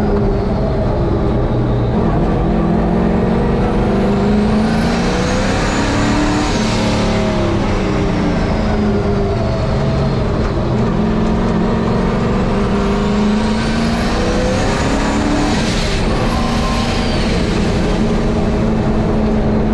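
Turbocharged race truck engine running hard on track, with the engine note climbing and falling through the gears. A high whistle rises and fades twice as the new 80 mm turbo spools up under throttle.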